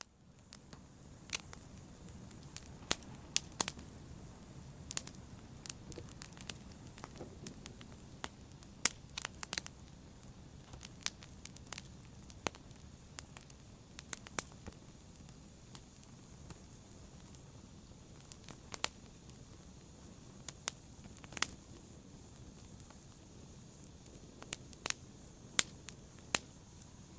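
Wood logs burning in a fireplace: a steady low rush of flame with sharp, irregular crackles and pops. The sound begins abruptly out of silence.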